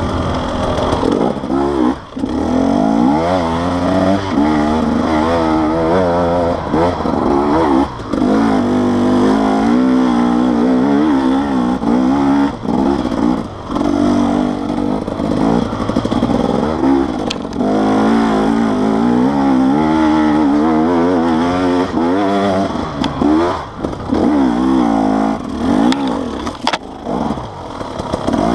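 Off-road enduro motorcycle engine heard from on board, its revs rising and falling over and over as the throttle is worked on a forest dirt trail, with occasional knocks and clatter from the bike over the rough ground.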